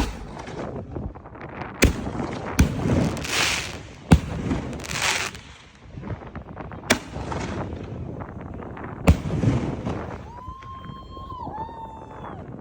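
Canister shell fireworks going off: about six sharp bangs over nine seconds, several of them followed by a crackling hiss from the bursts. Near the end a high, held whistling tone comes in and steps down in pitch.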